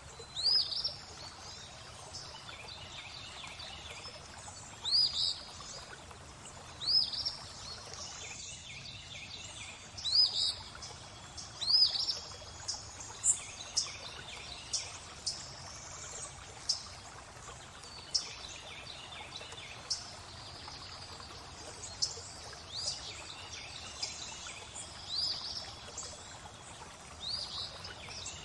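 Birds singing over steadily flowing water: short hooked whistled notes recur every few seconds, with sharp high chirps scattered between them, over an even trickle of water.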